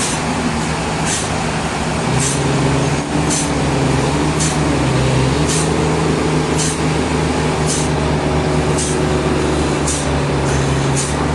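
Sawmill machinery running steadily with a low drone, with a short high hiss repeating about once a second.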